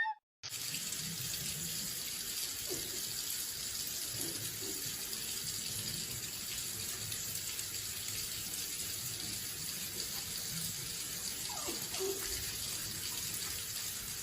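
A steady, even hiss, strongest in the high range, like running water or a tap, with faint low rumbling beneath it.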